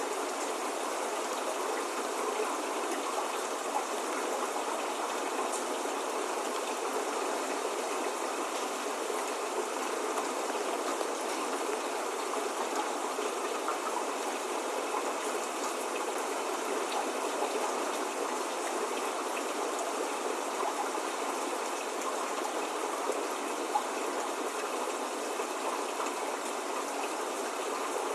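Steady spring rain: an even, unbroken hiss of falling drops, with a few single drops ticking out now and then, and no thunder or birdsong.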